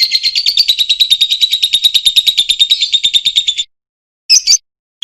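Lovebird's long, rapid chattering trill (ngekek), about a dozen shrill notes a second, which stops suddenly about three and a half seconds in; a short burst of chirps follows near the end.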